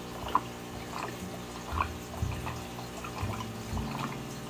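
Aquarium water bubbling and trickling: scattered small pops and drips over a steady low hum.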